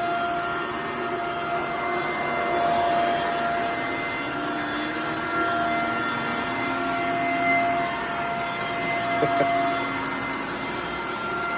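Vacuum cleaner running steadily: a constant rush of air with a steady whine on top.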